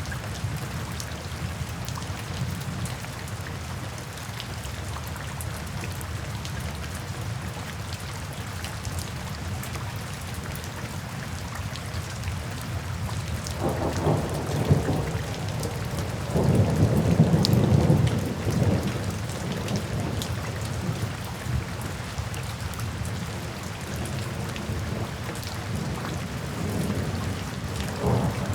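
Steady rain falling, with a rumble of thunder building about halfway through, loudest for a couple of seconds, then fading; a smaller rumble comes near the end.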